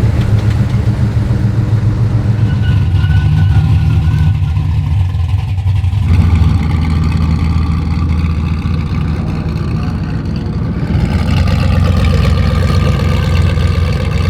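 Loud car engines running, mostly steady with a deep low pitch, the sound changing abruptly about six and eleven seconds in.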